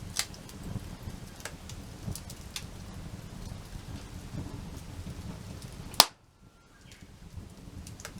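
Wood fire crackling, with scattered sharp snaps over a low steady rumble, and one loud pop about six seconds in after which the sound briefly drops away.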